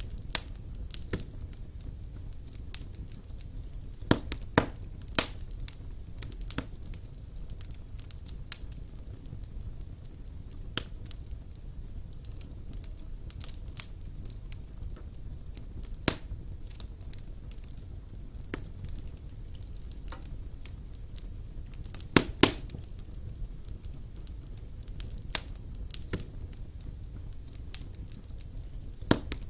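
Wood fire burning in a fireplace: irregular crackles and sharp pops over a low steady rumble, with the loudest pops about four and five seconds in, one near the middle, and a close pair about three-quarters of the way through.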